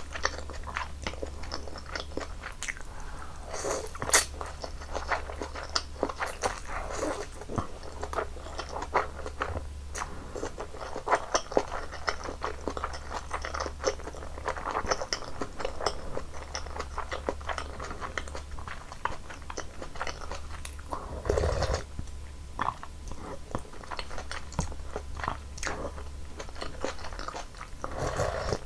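Close-miked eating sounds of janchi guksu, Korean noodle soup: continuous chewing with wet mouth clicks and smacks, and a louder mouthful about three-quarters through. A steady low hum runs underneath.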